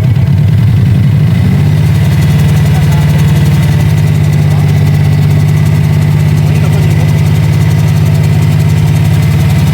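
Turbocharged Subaru EJ20 flat-four boxer engine idling just after start-up; its speed settles about a second and a half in, then it runs at a steady idle.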